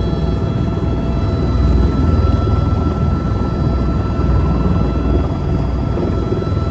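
Helicopter in flight: steady rotor and turbine noise, a heavy low rumble with a constant high whine over it.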